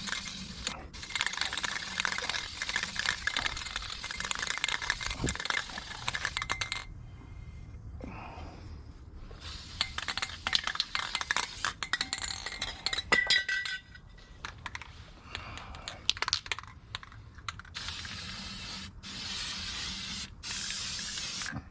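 Aerosol spray-paint can hissing in several long bursts as paint is sprayed, with short pauses and clicks between them.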